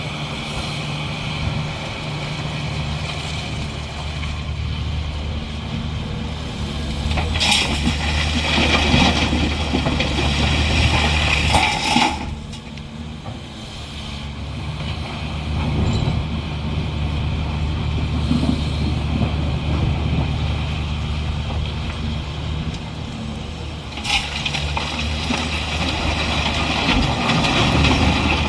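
Heavy diesel earthmoving machine running steadily, growing louder and brighter under load about seven seconds in and dropping back suddenly around twelve seconds, then loading up again near the end.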